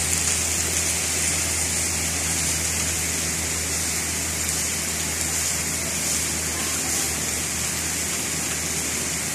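Heavy rain pouring steadily on tree foliage, a dense, even hiss with no letup, over a steady low hum.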